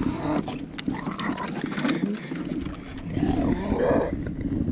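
Bulldog vocalising in a run of uneven, rising and falling sounds, loudest near the end, while excited in the kayak.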